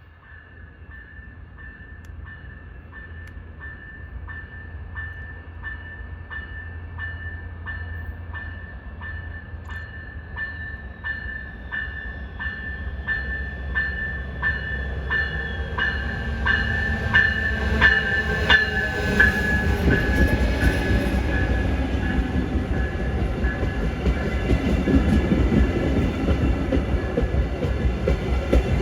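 VIA Rail passenger train approaching and passing, its rumble building steadily louder and filling out with rail and wheel noise in the second half. Through the first two-thirds a ringing tone is struck about twice a second.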